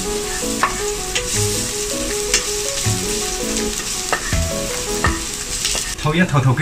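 Chopped aromatics sizzling in hot oil in a nonstick frying pan while a plastic spatula stirs them, with a few sharp clicks of the spatula against the pan. The sizzle cuts off about six seconds in, and a melody plays underneath.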